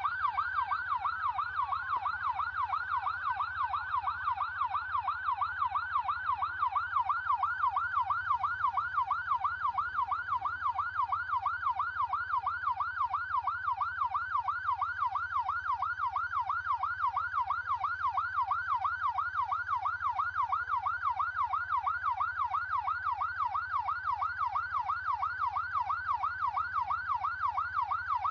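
Electronic vehicle siren on a rapid yelp, its pitch rising and falling quickly and without a break, over a faint steady low hum.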